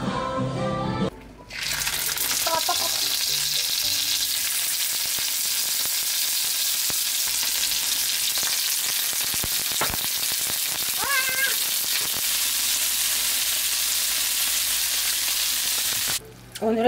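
Food sizzling in a hot frying pan: a steady, dense hiss that starts about a second and a half in and cuts off abruptly near the end.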